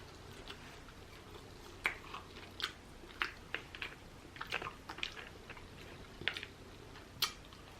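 A person chewing rotisserie chicken close to the microphone: faint, irregular short mouth clicks and smacks.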